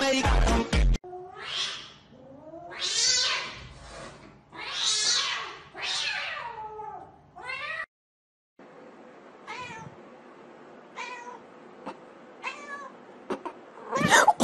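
Domestic cats meowing: a run of four or five loud, drawn-out meows of about a second each, bending up and down in pitch. After a short break come three shorter, fainter meows.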